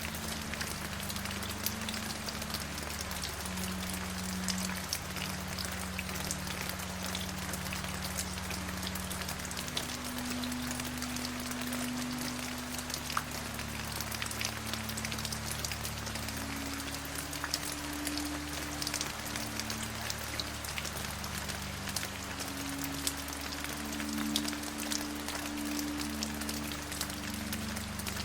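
Steady rain, an even hiss with many individual drops ticking through it, over low held tones that change pitch every few seconds.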